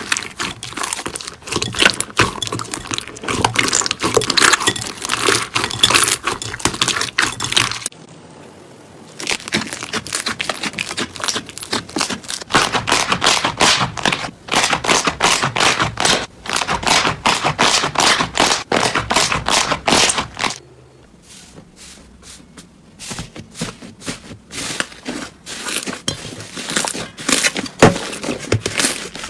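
Slime being squeezed and worked by hand, giving dense crackling and popping. There is a brief lull about eight seconds in and a quieter patch a little after twenty seconds before the crackling picks up again.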